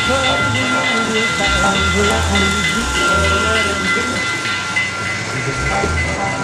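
Model train running on a layout: a steady high whine over a hiss, with people talking in the background.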